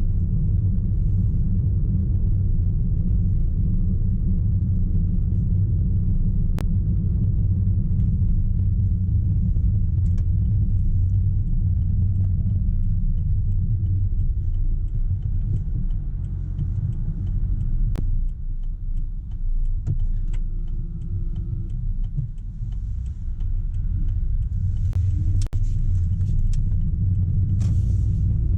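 Car driving along a road: a steady low rumble of engine and road noise, easing off somewhat for a few seconds past the middle.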